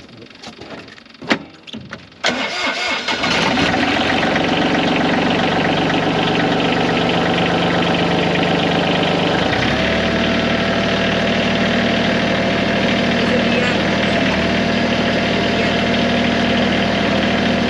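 A tractor engine is started after a short crank, about two seconds in, and settles into a steady idle. A few seconds later its note drops slightly and a steady whine joins it.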